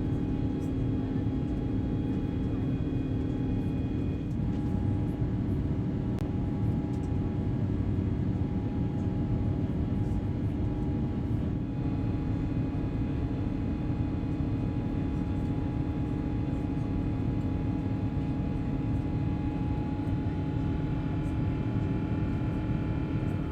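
Airbus A350-1000 jet engines heard from inside the cabin during takeoff and climb: a steady rush of noise with several steady hum tones, which shift slightly a few times.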